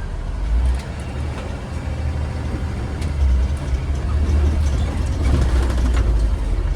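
2015 Blue Bird Vision school bus engine running with a steady low rumble as the bus drives, with a few light rattles.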